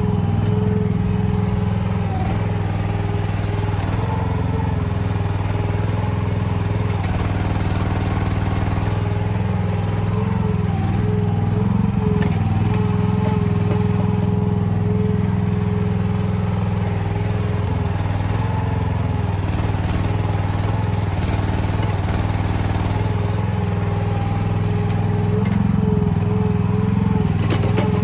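Mini excavator engine running steadily while digging, with a higher tone that wavers slightly over the steady drone.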